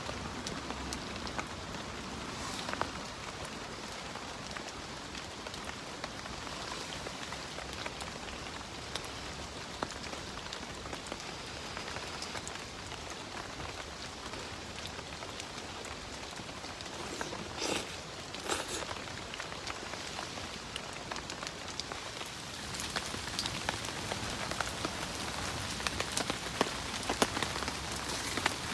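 Steady rain falling on a tent and tarp, with many small drop ticks over an even hiss. A couple of louder knocks come about two thirds of the way in, and the ticks grow denser near the end.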